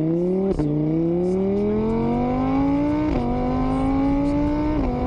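A vehicle engine accelerating through the gears. Its pitch climbs steadily and drops sharply at each of three upshifts: about half a second in, around three seconds in, and near the end.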